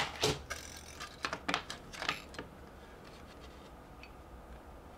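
Light clicks and taps from small parts being handled, several in the first two and a half seconds, then only a faint steady low hum.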